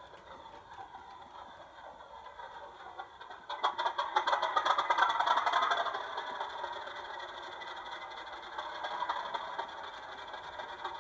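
Model diesel locomotive's Zimo sound decoder playing a diesel engine through the model's small speaker. About three and a half seconds in it gets suddenly louder with a quick rattle of clicks, then settles to a steady running note.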